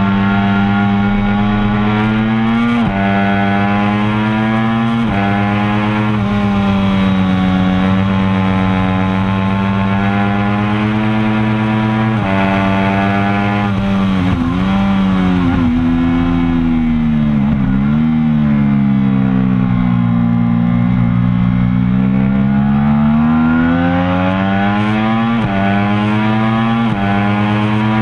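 Triumph Daytona 675R's three-cylinder engine at full throttle on track, heard from an onboard camera. It pulls up through the gears with sharp drops in pitch at each upshift. A little past the middle it falls away under braking with quick blipped downshifts, then climbs through the gears again with two more upshifts near the end.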